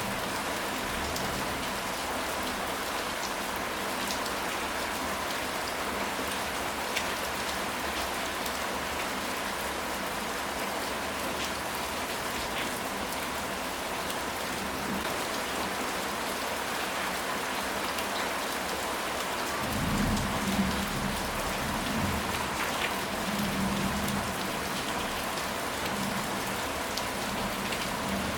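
Steady rain falling on a surface, a dense hiss with scattered drop ticks. About two-thirds of the way through, a low rumble rises and fades over a few seconds.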